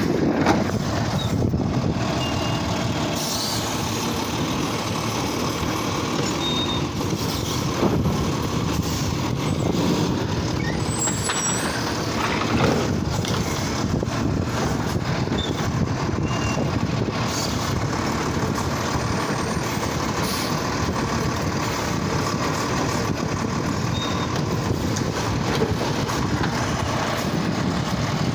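Garbage truck running steadily, with a few short knocks and faint tones over the engine noise.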